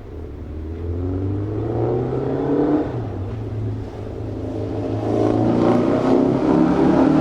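City street traffic: motor vehicles accelerating past with rising engine pitch, one about a second in and a louder one from about five seconds in, over a steady low engine hum.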